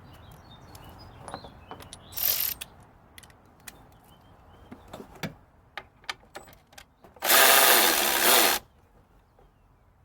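A power tool run in two short bursts, a brief one about two seconds in and a longer, louder one of just over a second near the end, with scattered clicks and knocks of tools being handled in between.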